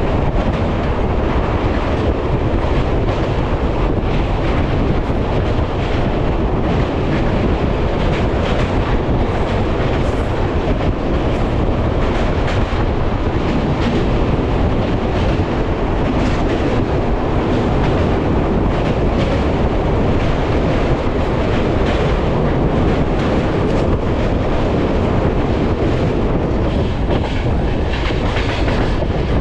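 Indian express train running steadily at speed, heard from inside the coach: a constant rumble of steel wheels on the rails with a rapid clatter of small ticks, as it crosses the Narmada river.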